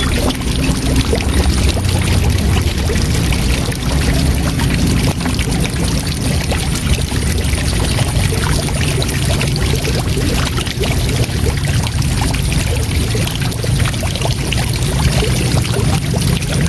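Waterfall rushing steadily: a continuous wash of falling water with a deep low rumble underneath.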